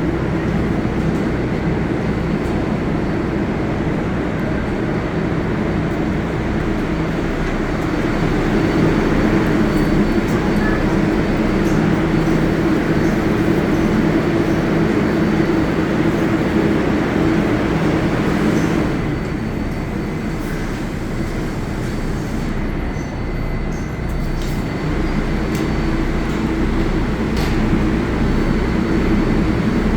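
New York City Subway 7 train in the station, a steady rumble with a low motor hum that eases off for a few seconds past the middle, then builds again.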